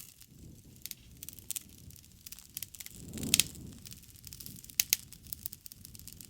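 Wood fire crackling and popping over a low rumble of flames. A louder surge with a strong pop comes about three seconds in, and two sharp pops near five seconds.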